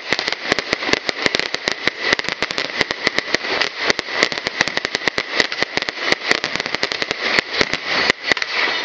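Aerial fireworks display going off in a dense, irregular barrage of bangs and crackles, many per second without a break.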